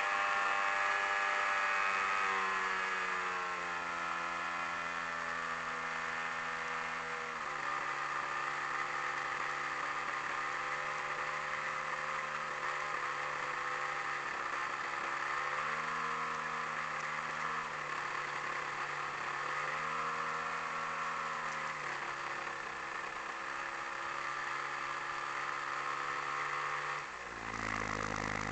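AGM 30 petrol engine of a quarter-scale Piper Super Cub model plane running, heard from a camera mounted on the airframe. Its pitch sinks over the first few seconds, drops again after about seven seconds, then rises and falls a few times as the throttle is moved, with a sudden change near the end.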